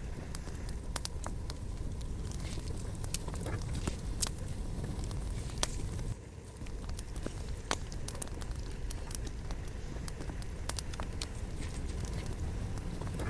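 Campfire of burning wood crackling, with irregular sharp pops and snaps over a steady low rumble of the flames; the sound dips briefly about six seconds in.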